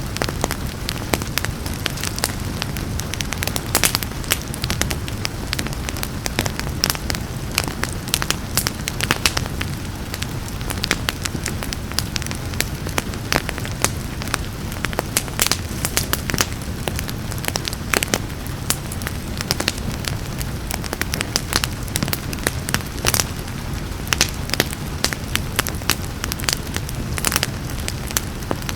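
Wood fire crackling with frequent irregular pops and snaps over a steady low rumble of flames, with a soft hiss of rain behind it.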